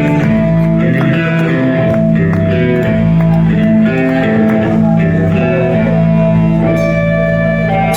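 Live rock band playing with electric guitar and bass, a held guitar note over moving bass notes, without singing.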